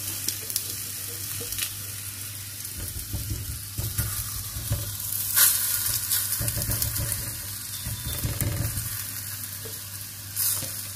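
Ghee sizzling under a methi paratha on a hot tawa, with a spoon rubbing and scraping over the paratha as it spreads the ghee across the top. There are a couple of sharp taps, one about midway and one near the end.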